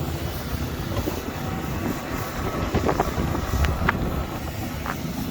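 Steady low rumble of city traffic with wind buffeting the microphone, and a few short clicks or knocks.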